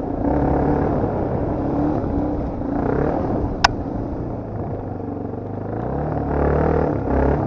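Motocross motorcycle engine running hard, its pitch rising and falling as it revs up and drops back. A single sharp click about three and a half seconds in.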